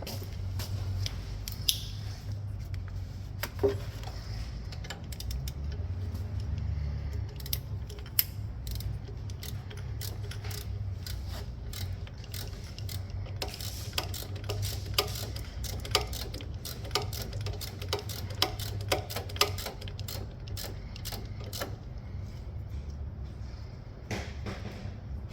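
Socket-wrench ratchet clicking in irregular runs, with scattered metallic clinks, as the alternator mounting bolts are undone. A steady low hum runs underneath.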